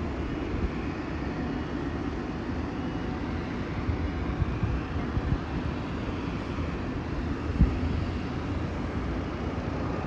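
Airbus A321neo jet engines at takeoff power, a steady low rumble, with a single brief low thump about seven and a half seconds in.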